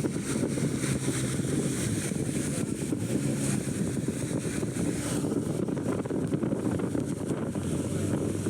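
Motorboat under way: a steady low rumble of engine and water, with wind buffeting the microphone throughout.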